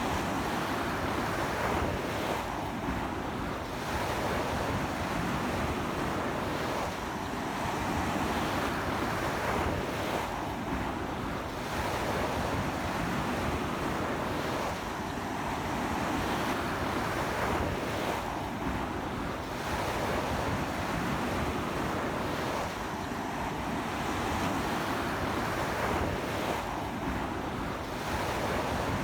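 Ocean surf breaking on a beach in strong sea wind, a continuous wash that swells and eases about every four seconds.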